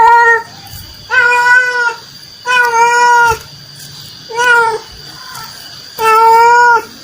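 Domestic cat meowing over and over: about five separate meows, each well under a second, with short pauses between them.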